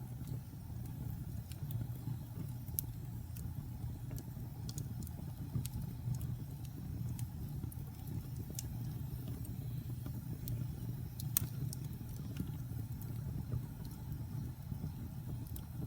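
Wood fire burning in a fireplace: a steady low rumble of flames with scattered sharp crackles and pops from the burning logs, the loudest pop about eleven seconds in.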